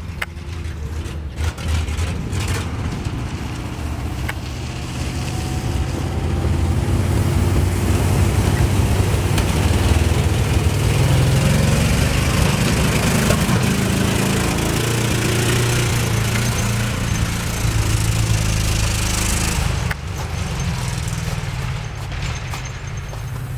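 1971 International 1890 truck's engine running under load at highway speed, with wind and road noise. It grows louder a few seconds in, holds, then drops suddenly near the end.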